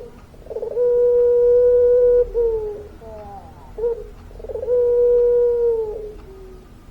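Puter pelung dove cooing: two long coos, each held level at one pitch for about a second and a half and led in by a few short, quick notes.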